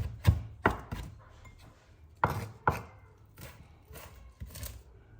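Knife finely chopping fresh mint, basil and parsley on a cutting board. Short runs of sharp knocks come near the start and again about two seconds in, then softer, sparser strikes toward the end.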